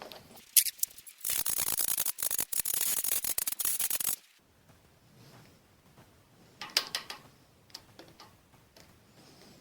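Electric welding arc crackling for about three seconds, then cutting off suddenly, as weld is laid into a broken stud in a flathead Ford V8 block to draw it out. A sharp click comes just before, and a few light metallic clicks follow near the end.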